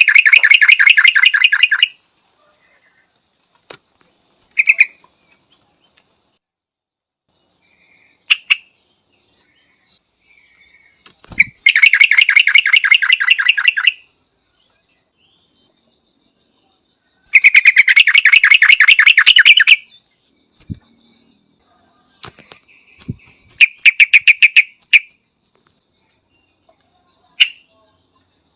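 Yellow-vented bulbul calling: loud, rapid chattering phrases about two seconds long, repeated three times with a shorter one near the end, and brief single notes in between.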